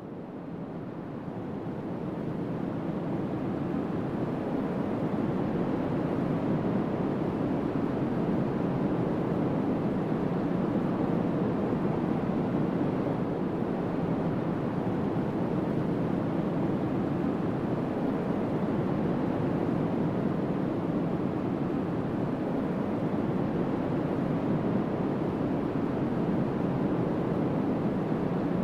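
Strong wind: a steady rushing noise that swells over the first few seconds, then holds steady.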